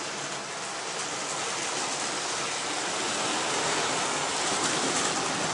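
Hornby model locomotives running on the layout's track: a steady rushing whirr of small electric motors and wheels on the rails.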